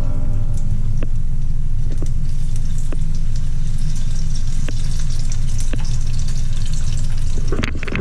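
Beer-battered frog legs sizzling and crackling in 350-degree frying oil over a strong steady low rumble. A few light clicks come about a second apart.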